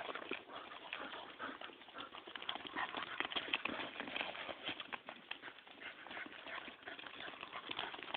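Goats' hooves clattering in quick, irregular steps as they run and chase a puppy.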